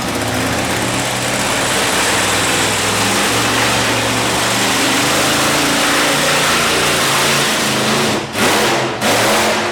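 Monster truck's big-block engine running hard at high revs, its pitch stepping up and down as the throttle is worked, with two brief drops near the end.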